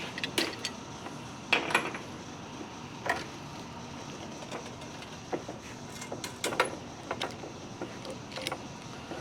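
Scattered metal clicks and clinks from hand tools working a brake line flaring tool on steel brake line, a few sharp knocks irregularly spaced over a low steady background.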